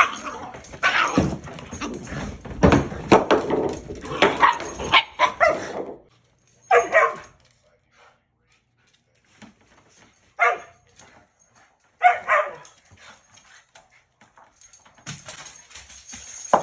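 Dogs barking and vocalising in a back-and-forth squabble: a dense run of calls for the first six seconds, then three short separate bursts with gaps between, and more calls near the end.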